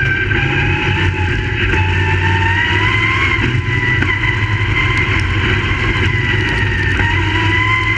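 Crate late model race cars' V8 engines running under power: a loud, steady drone whose pitch slowly rises and falls.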